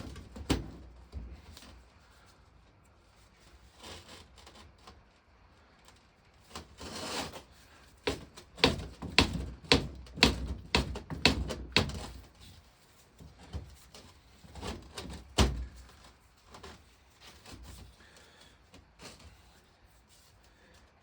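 Sharp knocks and taps from the water pump of a 1921 Lister stationary engine being stripped, as parts are worked off its shaft and the shaft is driven out. A quick run of strikes comes near the middle, then one loud knock a few seconds later and lighter taps after.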